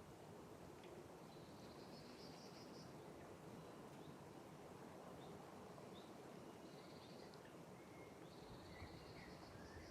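Faint forest ambience: a small songbird gives high trilled phrases three times, with a few short chirps near the end, over a quiet steady hiss.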